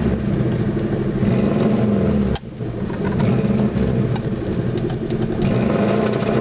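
Subaru car engine running and being revved, with a brief break about two and a half seconds in.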